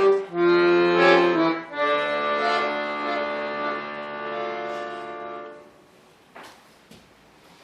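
Bayan (Russian button accordion) playing the closing chords of a piece. The last chord is held for several seconds and fades out a little past halfway, followed by a couple of faint knocks.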